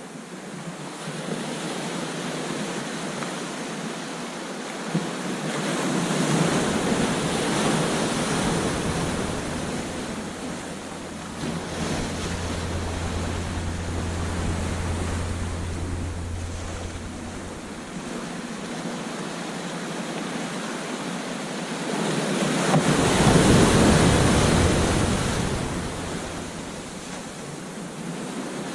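Ocean surf breaking and washing up a beach, a steady rush that swells with two larger waves, about six seconds in and, loudest, near the end. Wind rumbles low on the microphone midway.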